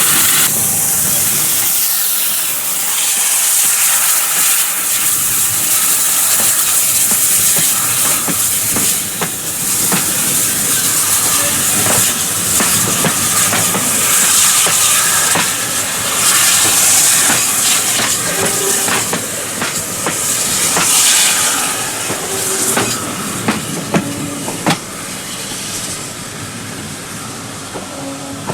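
Steam-hauled train on a preserved railway: a steady loud hiss of steam with scattered sharp clicks of wheels over rail joints, fading over the last few seconds.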